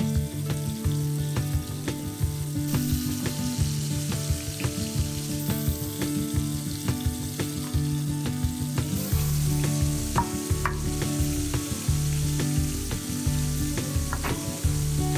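Flour-dredged capelin frying in shallow vegetable oil in a pan: a steady sizzle with many small crackles. Background music with a low, stepping bass line plays along.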